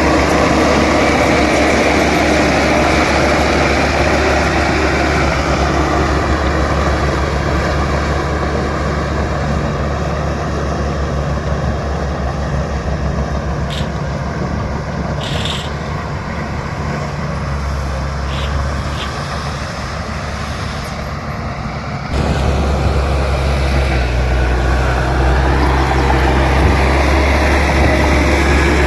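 Bulldozer's diesel engine running steadily, easing off gradually through the middle and then jumping back up abruptly about two-thirds of the way through, with a few faint clinks midway.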